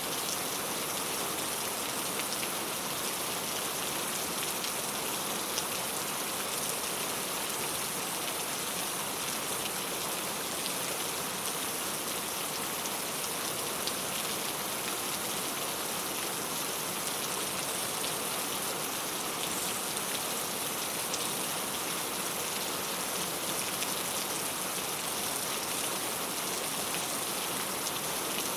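Steady rain falling on a clay tile roof: an even hiss with many scattered drip ticks.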